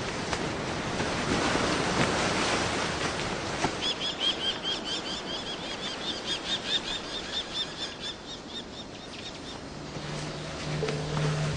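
A rushing noise like wind, then a fast run of short, high chirping bird calls, about four a second, lasting some five seconds. The calls are given as the cry of the kikik, the night bird of Philippine folklore said to follow the Wak-Wak. Near the end a low steady hum comes in.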